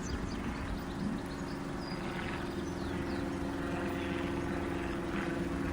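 A steady mechanical drone with a low rumble, holding one even pitch.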